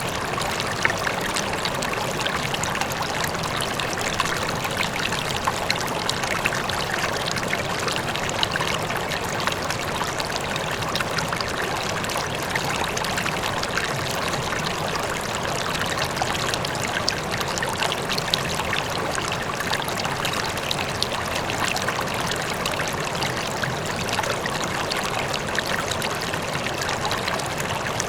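River flowing: a steady rush of moving water with many small splashes and gurgles, with the wash of a faint waterfall in the distance.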